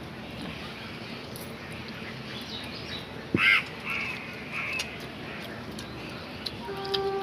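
Bird calling: one loud, short, harsh call about three and a half seconds in, then a few shorter, fainter calls. A steady low tone starts near the end.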